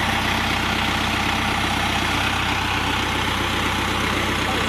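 Tractor engine running steadily at idle, a constant low throb.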